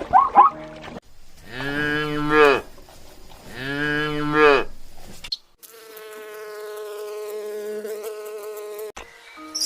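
A cow mooing twice, each call about a second long, then a steady buzz lasting about three seconds.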